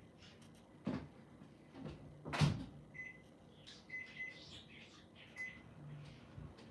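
Microwave oven operated: two sharp clunks of the door, then several short high beeps from the keypad, and the oven's low hum starting up near the end.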